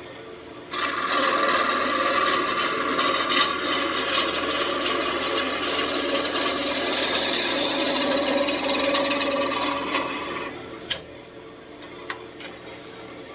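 Lathe tool cutting a spinning walnut blank on a wood lathe: a loud, even scraping that starts about a second in and stops suddenly about ten seconds in, followed by a couple of short clicks. The blank is being trued up where it is not yet round, with a dull tool.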